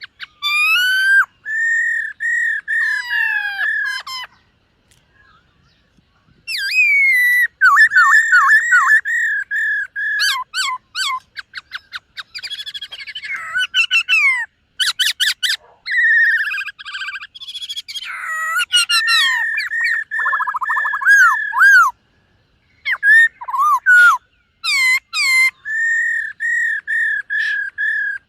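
Black-throated laughingthrush singing: loud phrases of rapidly repeated whistled notes mixed with fast slurred glides and trills, broken by a couple of short pauses.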